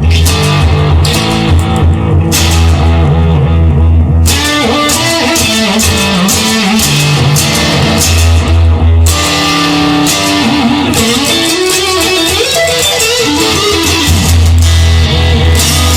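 Instrumental rock music: electric guitar and bass guitar playing together, with the guitar bending notes in the middle stretch.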